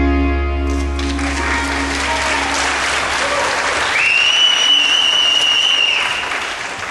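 The backing band's last chord rings out, and an audience applauds and cheers from about a second in. Midway through, someone in the crowd gives one long, steady whistle lasting about two seconds.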